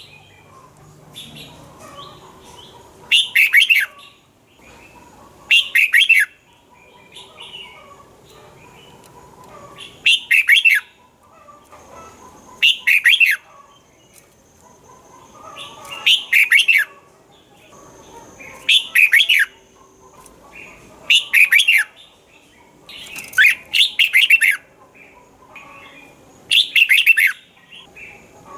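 Red-whiskered bulbul singing: short, loud whistled phrases of quick falling notes, repeated every two to three seconds, with faint chirping between them.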